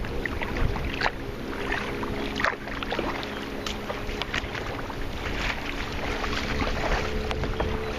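Water sounds around a kayak on the water, with many short splashes and drips, wind noise on the microphone, and a faint low drone underneath.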